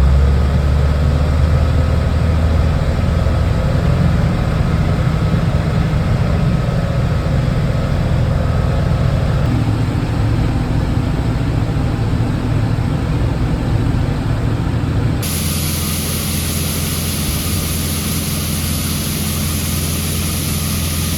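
John Deere 6600 combine running steadily while harvesting corn, a loud low machine drone. About fifteen seconds in the sound changes abruptly and a loud high hiss joins the drone.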